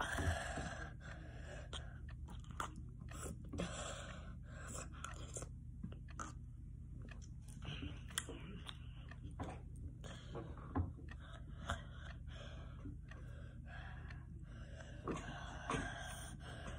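Close-up mouth noises from someone whose tongue is burning from an extremely spicy gummy bear: wet chewing and clicking, with repeated sharp breaths through the open mouth to cool it.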